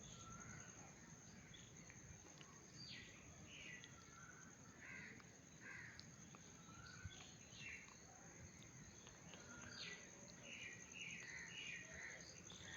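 Faint birds calling outdoors: scattered short calls through the whole stretch, thickest in a run of several calls just after ten seconds in, over a steady high-pitched whine.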